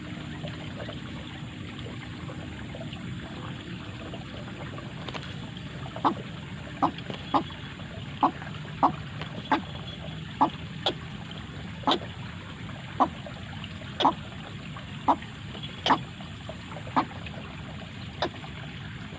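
White-breasted waterhen (ruak-ruak) calling: short sharp notes repeated about once a second, starting about six seconds in, over a steady background hiss.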